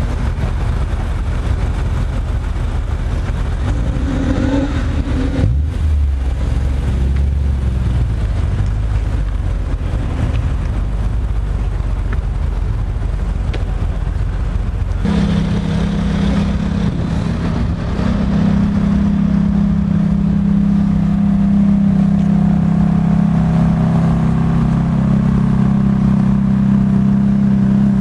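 BMW E46 M3's straight-six running at idle, revving briefly about five seconds in. About halfway through it gives way abruptly to a different car's engine, a steady drone that grows louder a few seconds later.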